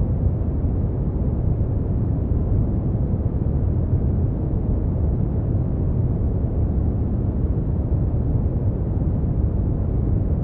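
Steady brown noise: a deep, even rumble of hiss, strongest in the low bass and falling away toward the treble, with no changes.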